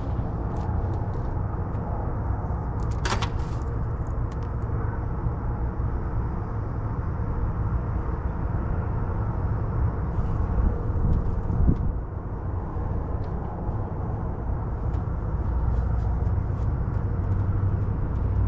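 Steady low rumble and hum, with one sharp click about three seconds in and scattered light ticks and clicks of handling.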